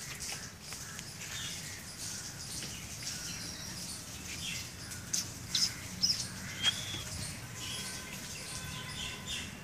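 Small birds chirping in the background, with a cluster of short, sharp high chirps about five to seven seconds in, over a steady low background hum.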